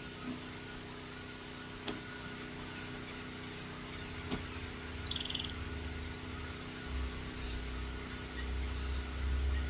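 Steady droning hum of a machine that the uploader takes for a compressor, running with several fixed tones. Two sharp clicks and a brief high chirp come through it about halfway in, and a low rumble builds up in the second half.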